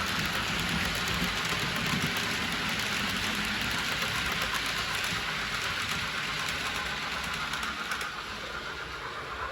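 Model train running along the layout's track: a steady rushing rattle of motor and wheels on rail that eases off about eight seconds in.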